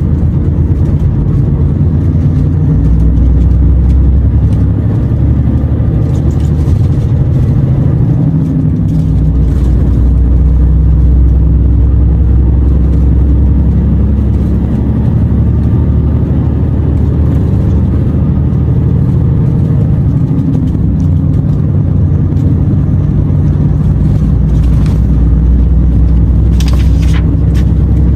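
Renault T480 truck's diesel engine running steadily while driving, heard from inside the cab, its note shifting slightly with speed. A few short knocks near the end.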